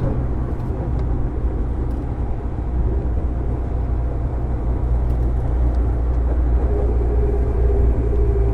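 Running noise of a JR 205-series electric train motor car fitted with MT61 externally-fanned traction motors: a steady rumble of wheels on rail. A steady hum joins about two-thirds of the way through.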